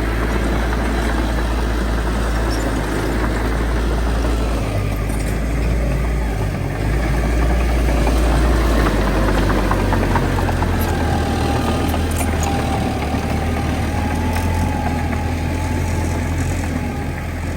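Heavy diesel engines of earthmoving machinery running with a steady low rumble; the engine note shifts a little about halfway through.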